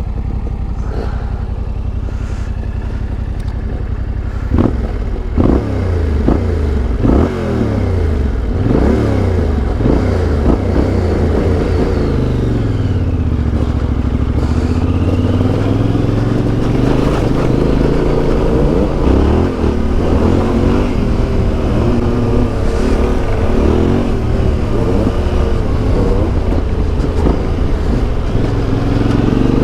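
Yamaha Ténéré 700's CP2 parallel-twin engine with an Akrapovic exhaust under way, revving up and easing off again and again as it accelerates and shifts. A few sharp knocks come about four to seven seconds in. About halfway through, the engine speed drops low and then climbs again.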